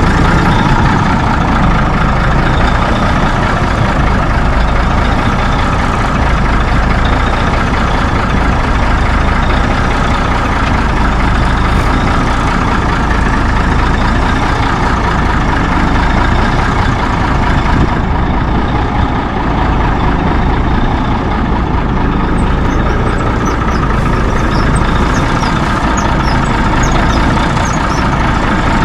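Heavy truck engine idling steadily while building up air pressure for its brakes.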